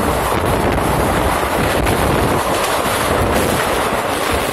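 Steady rushing noise and low rumble of a moving train heard at a carriage window, with wind buffeting the microphone.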